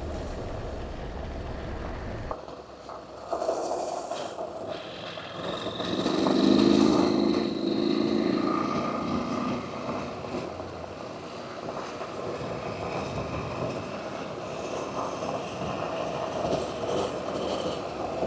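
Motorcycle running on the road, engine and wind noise. The deep rumble drops out suddenly a couple of seconds in, and the engine gets louder for a few seconds in the middle.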